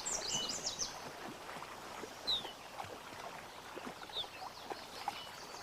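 Small birds chirping with short, downward-sliding calls, a quick cluster at the start and single calls about two and four seconds in, over faint water sounds from animals moving in shallow water.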